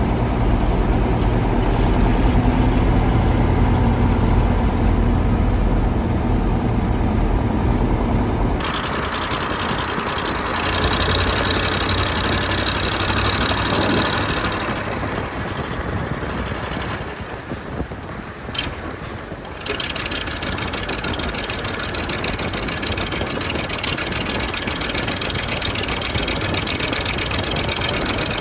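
KAMAZ 4310 6x6 truck's V8 diesel engine running as the truck drives off-road. The sound changes abruptly about a third of the way in, and a few sharp clicks come a little past halfway.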